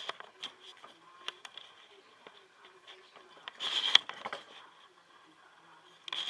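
Close-miked chewing of a burger: soft, wet mouth clicks, with two brief louder noisy bursts, one about three and a half seconds in and one near the end.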